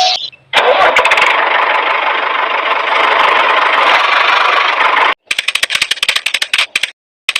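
An engine running steadily for about five seconds, then a fast stuttering run of clicks with short breaks.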